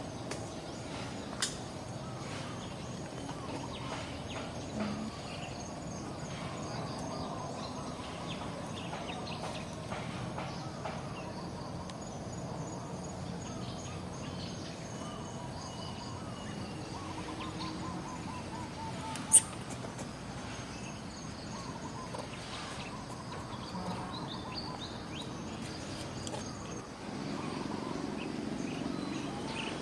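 Outdoor ambience with faint scattered chirping calls over a steady background hiss, broken by a sharp click about a second and a half in and a louder one a little past the middle.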